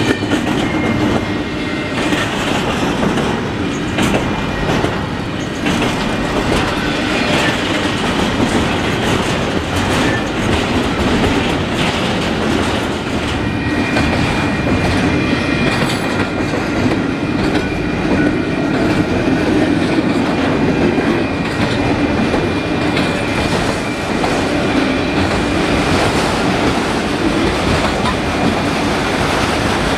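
Canadian Pacific freight train cars rolling steadily past, wheels clacking over the rail joints, with a thin squeal from the wheels coming and going.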